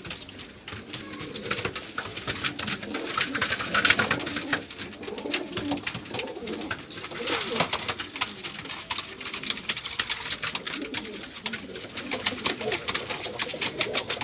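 Domestic pigeons cooing, with many sharp clicks and scuffs throughout.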